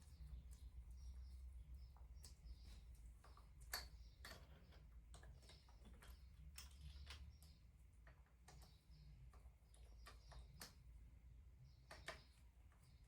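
Faint, irregular clicks and taps of hand tools against engine parts, over a low steady hum.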